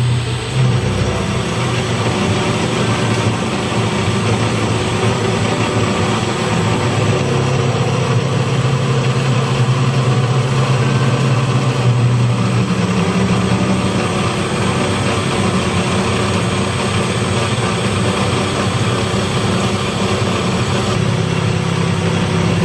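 A large machine or engine running steadily, with a constant low hum over a broad mechanical noise.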